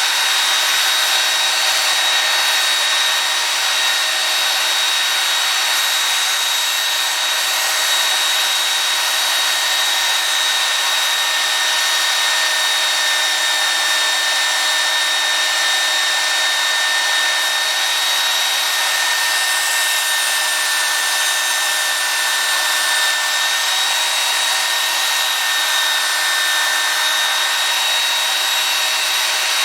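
Belt sander running steadily, its motor carrying a steady high whine over the even rushing hiss of the belt.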